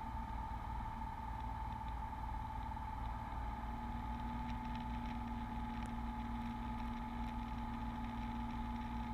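Steady drone of a Beechcraft Bonanza V35's piston engine and propeller heard in the cabin, with an even pitch throughout; a lower steady hum joins it about three and a half seconds in.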